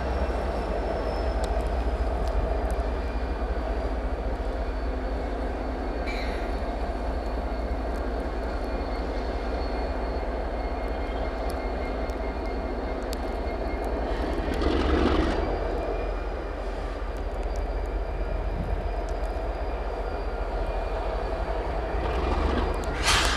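Diesel freight locomotives running steadily as the train backs through the yard, a steady engine drone with a high, steady whine over it. Two brief louder noisy swells come about two-thirds of the way in and near the end.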